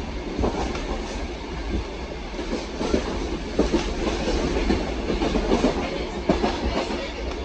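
Passenger train carriage running along the track, heard from on board: a steady low rumble with irregular clicks and knocks from the wheels over the rails.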